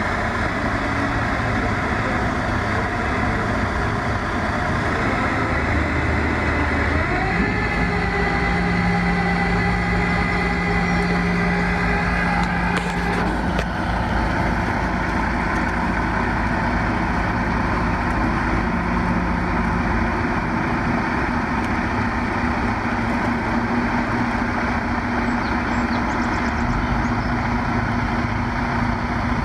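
Heavy diesel engine running steadily, its pitch rising a little about seven seconds in and holding there.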